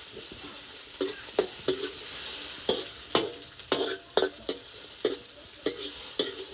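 Food deep-frying in hot oil, with a steady sizzle. A metal utensil knocks and clinks against the pan over and over, about one to two times a second, as the food is stirred.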